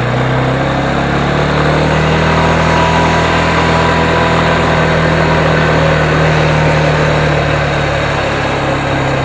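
Vehicle engine running while driving, its pitch rising over the first couple of seconds as it speeds up, then holding steady and easing off slightly near the end.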